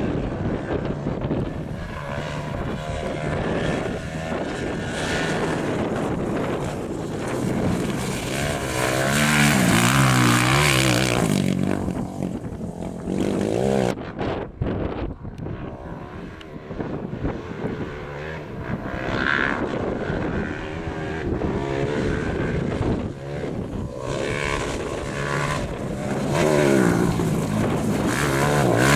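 Competition rally vehicle engines revving hard through the gears on a gravel stage, the pitch rising and falling several times as vehicles pass, with a sudden break about halfway through.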